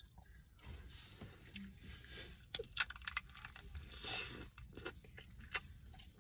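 Crunching and chewing of a hard candy coating close to the microphone, with a run of sharp crackles through the middle.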